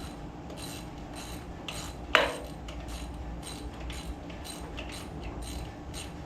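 Metal hand tools working a bolt on an engine: a series of short metallic clicks and scrapes, about two a second, with one sharp loud metal clank about two seconds in.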